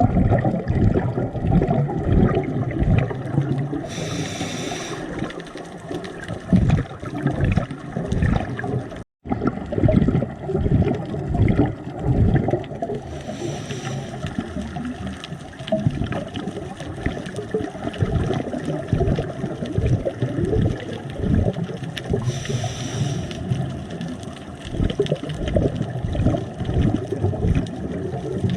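Muffled water sloshing and bubbling from a camera held underwater in the sea, a dense uneven churning that runs throughout. Short hissy bursts of bubbles come roughly every nine seconds.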